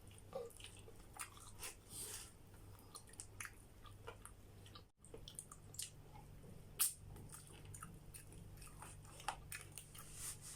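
Close-miked chewing and biting of pizza: scattered wet mouth clicks, smacks and small crunches over a faint steady hum. The sound cuts out completely for an instant about halfway.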